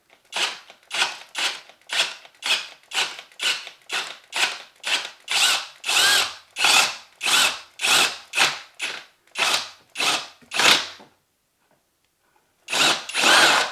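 Power drill with a butterfly (spade) bit boring into the wood of a door frame to cut out the strike plate mortise. It is run in short trigger bursts, about two a second, each rising and falling in pitch. It stops for over a second near the end, then starts again.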